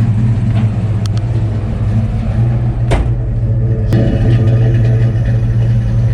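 1985 Ford Mustang GT's V8 idling with a steady low rumble. Two sharp clicks sound over it, about three seconds in and again a second later.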